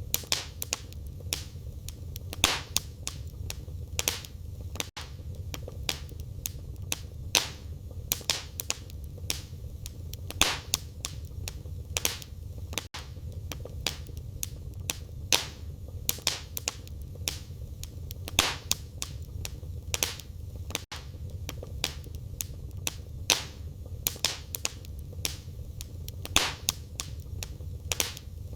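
Wood fire crackling in a fireplace: irregular sharp pops and snaps from the burning firewood over a steady low rumble of the flames, with a very brief gap about every eight seconds.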